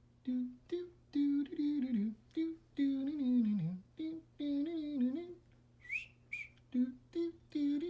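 A person humming a wordless tune in short, separate phrases that slide up and down in pitch. About six seconds in there is a brief high rising chirp.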